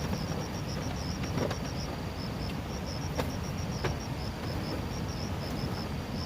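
An insect chirping in quick regular pulses, about four or five a second, over a steady low rumble, with a few faint clicks.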